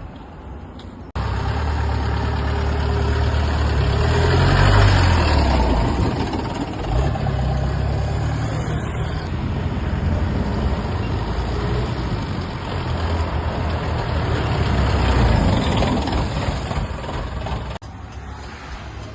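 A vehicle engine running with a heavy low rumble and a broad hiss, swelling in level a few times, cut in abruptly about a second in and cut off shortly before the end.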